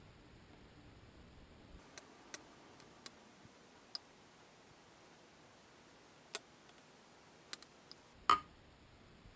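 Scattered light clicks and clinks of metal engine parts being handled during assembly, about seven over several seconds, two of them louder than the rest.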